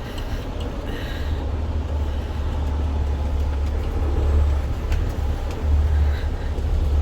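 Semi truck's diesel engine running with a steady low rumble as the truck moves along, growing a little louder from about a second in, with a few light clicks and rattles.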